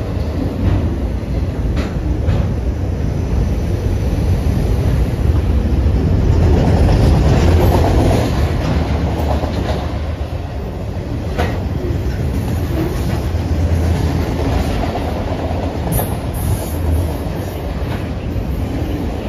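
CSX freight train of autorack cars rolling past close by: a steady, loud rumble of wheels on rail with clickety-clack over the joints. A few sharp clanks come about two seconds in and again near the middle.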